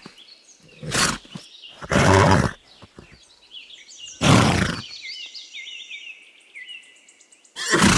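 A horse snorting three times, short noisy blows of breath. Small birds chirp in the background through the second half.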